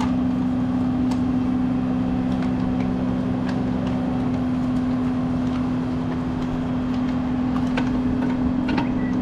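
Electric shop fan running with a steady low hum.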